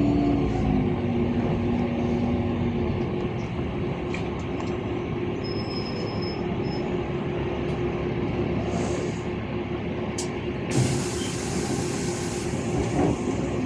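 Interior of a LiAZ 5292.65 city bus under way: steady engine and road rumble, with a whine that glides up and then holds for the first few seconds. About 11 s in there is a hiss of compressed air from the bus's pneumatics lasting about a second and a half.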